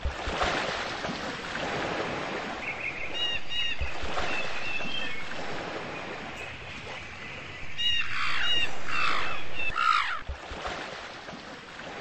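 Birds calling over a steady background hiss. Short repeated chirps come a few seconds in and again around eight seconds, followed by several harsher falling calls near the end.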